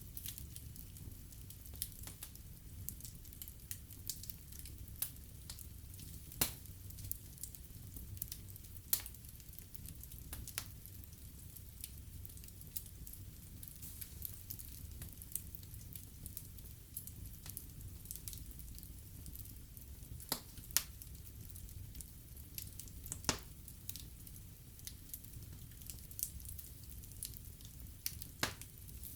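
Wood fire burning in a fireplace: a steady low rumble of flames with sharp, irregular crackles and pops of burning logs, a few of them louder.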